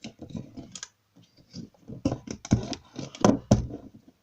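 A run of small clicks and taps from hands handling things at a table, scattered at first and loudest about three seconds in.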